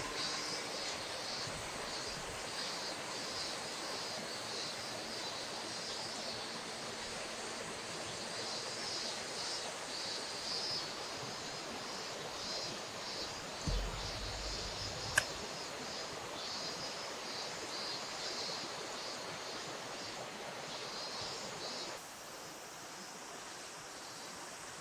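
Steady rush of flowing river water, with a high, rapidly pulsing chirring over it that stops abruptly about 22 seconds in, where the level also drops. A low thump about 14 seconds in and a sharp click just after.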